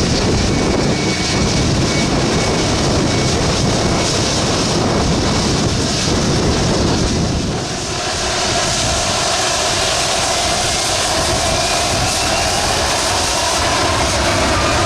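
Jet airliner engines running with a dense rumble. About halfway through the sound changes, and a whine climbs steadily in pitch to the end.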